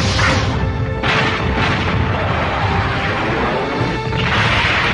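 Animated warship's cannons firing a volley at a distant target: loud booming blasts with long rumbling tails, one right at the start, another about a second in and a third near the end, over background music.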